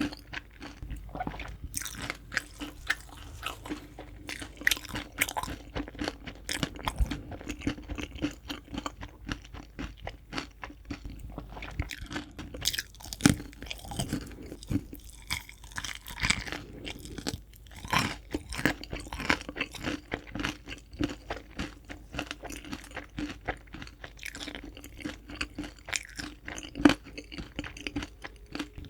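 Crispy fried chicken being bitten and chewed close to the microphone: irregular crackling crunches of the fried coating, with a few sharper crunches standing out.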